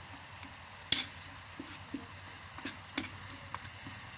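A spoon knocking and scraping against a cooking pot while food is stirred, in irregular clinks. The loudest clink comes about a second in.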